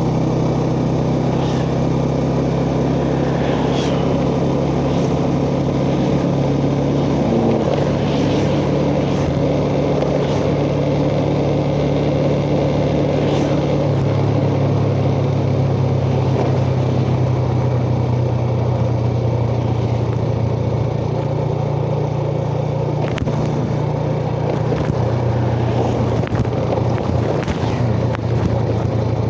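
Yamaha Jupiter Z underbone motorcycle's single-cylinder four-stroke engine running under way, heard from the rider's chest, with road and wind noise. The engine note holds steady, then changes pitch about halfway through and again near the end as the rider shifts or changes throttle.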